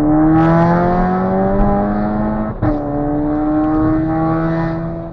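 Volkswagen Jetta 2.0 TSI turbocharged four-cylinder under hard acceleration, its note climbing steadily. About two and a half seconds in, an upshift cuts in with a short sharp crack, and the engine climbs again in the next gear before backing off at the end.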